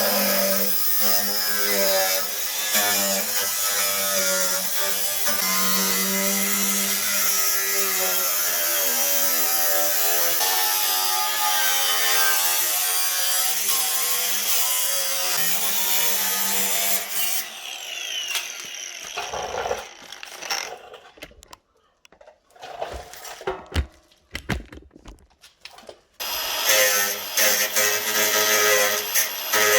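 Handheld power tool cutting into rusted car-body sheet metal, its pitch dipping and rising as it loads. It stops about 17 s in, leaving a few seconds of short knocks and quiet, then starts again about 26 s in.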